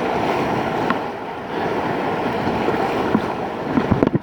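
River water rushing steadily around a kayak, with wind on the kayak-mounted phone's microphone. A few sharp clicks come near the end.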